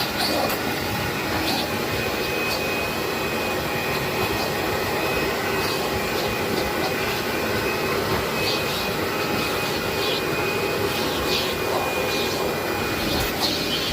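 Vacuum cleaner running steadily over carpet, a constant motor drone with a thin high whine, and short higher hisses every few seconds.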